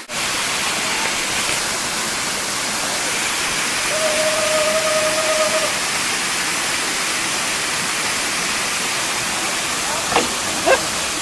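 Small waterfall rushing in a steady, even hiss of falling water. A single held pitched note rises over it about four seconds in for under two seconds, and two brief sharp sounds come near the end.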